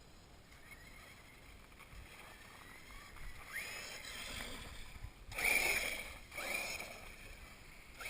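A 1/8 scale RC monster truck's motor revving in bursts, with rising whines as it accelerates. It is faint at first, then revs up a few seconds in, loudest about two-thirds of the way through.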